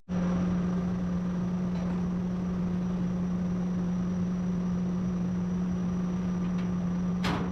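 A steady mechanical hum at one low pitch, with a brief click near the end.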